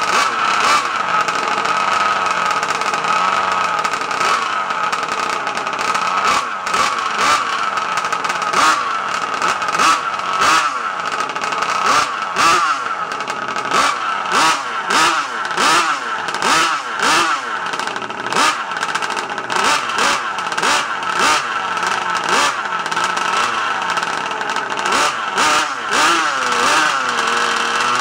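Rovan Terminator RC car's 50.8 cc RCMK twin-cylinder two-stroke engine with an unsilenced Victory-RC exhaust, running loud. From about six seconds in, it is blipped repeatedly, roughly once a second, its pitch rising and falling with each blip. It settles to a steady idle near the end.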